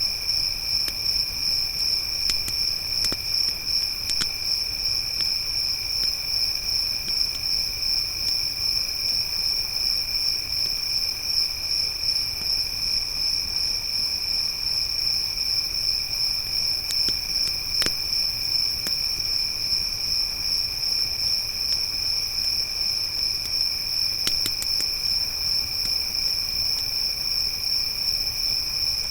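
Crickets chirping in a steady high trill. A few faint sharp pops from a crackling campfire come now and then.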